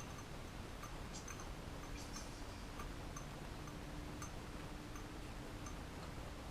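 Faint, scattered light clicks and taps, typical of hand tools and a compression tester being handled, over a steady low hum.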